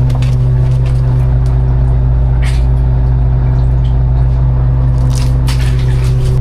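Fishing boat's engine running steadily with an even drone, with a few short noises about two and a half and five seconds in.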